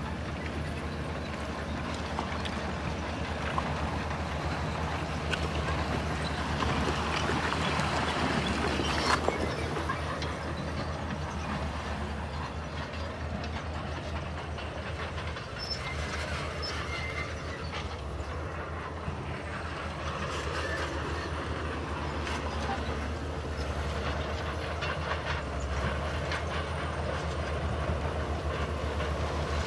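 Crawler bulldozer's diesel engine running steadily under load, with a continuous clatter of its steel tracks and the stone it pushes.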